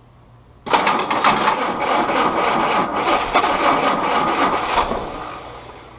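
Willys L134 Go Devil four-cylinder engine being cranked over by its starter, starting suddenly about a second in and grinding for about four seconds before winding down. This is a start attempt with the distributor just turned to advance the timing, on an engine that has not been firing consistently.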